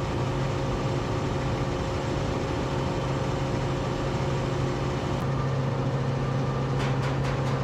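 Steady car engine and cabin hum heard from inside a vehicle, with a quick run of light ticks near the end.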